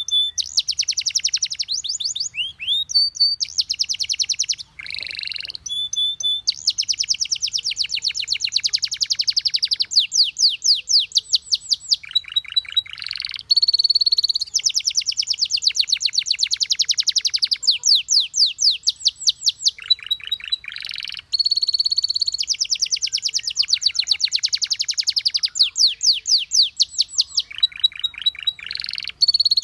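Canary singing a long, continuous song: rolling phrases of fast trills, each lasting a few seconds, broken by short, clear, high whistled notes.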